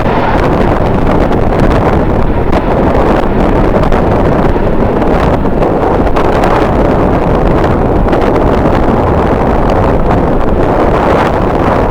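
Strong wind blowing across the microphone: a loud, steady rush with a deep rumble.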